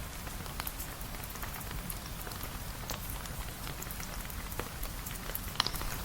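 Steady rain falling on a surface, with scattered sharp drip-like ticks throughout and one louder tick about five and a half seconds in.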